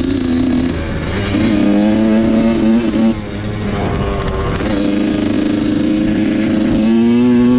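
Dirt bike engine being ridden, holding steady revs with brief dips as the throttle is eased, about a second in and again around three seconds in, then revving up near the end.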